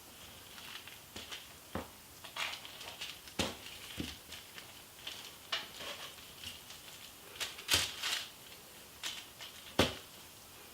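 Fillet knife trimming fat from raw beef ribs on wax paper: irregular light knocks and taps of the blade and meat against the counter, with short scraping and crinkling sounds between them.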